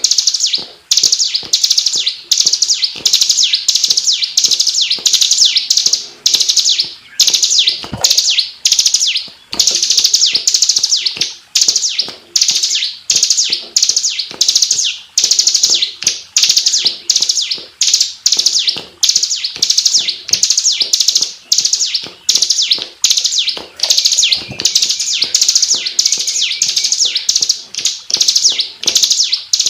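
Bar-winged prinia (ciblek) singing a dense, high-pitched rapid trill in short bursts, about two a second with brief breaks between them, in the tight rolling 'ngebren' style.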